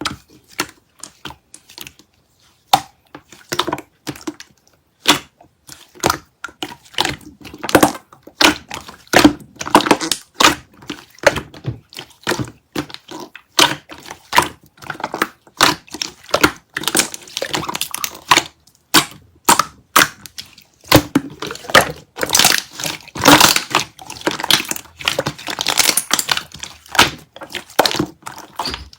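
Chewy slime being squeezed, poked and stretched by hand, giving a dense run of sticky clicks and pops that grow busier and louder after about twenty seconds.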